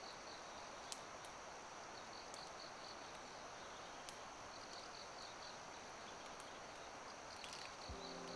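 Faint outdoor ambience with insects chirping in short high pulsed bursts every couple of seconds over a steady hiss, with a few faint clicks. Music starts near the end.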